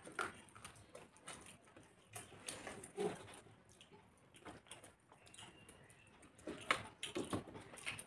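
Two people eating rice and curry with their hands: wet chewing and lip smacks, with fingers mixing rice on metal plates. A few sharper smacks come about three seconds in and near the end.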